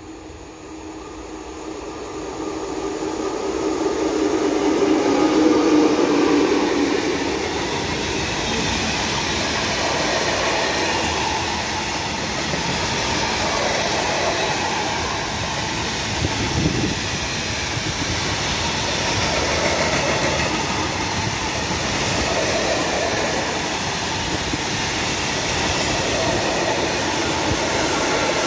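A freight train passing: the electric locomotive comes up louder and louder with a steady hum and passes about five seconds in. Behind it a long line of open-top freight wagons rolls by with a steady rolling rumble from their wheels on the rails.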